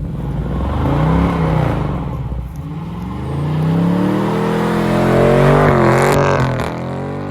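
2020 Dodge Charger Scat Pack's 6.4-litre (392) V8 revving hard against the line lock, the rear tyres spinning to warm them up. The revs rise and fall once about a second in, then climb in one long pull to a peak about six seconds in before dropping back.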